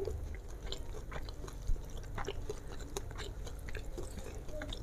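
Mouth sounds of someone chewing a mouthful of soft fried flat rice noodles (kwetiau goreng), with scattered short wet clicks and smacks, one louder about a second and a half in.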